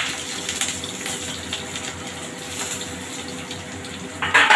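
Potato chunks frying in hot oil in a kadai: a steady sizzle with small crackles. One brief, louder burst of noise near the end.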